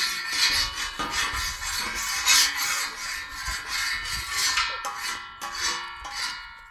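Repeated rasping scrapes of a tool working a hard surface, stroke after stroke, with a faint metallic ringing; the strokes thin out near the end.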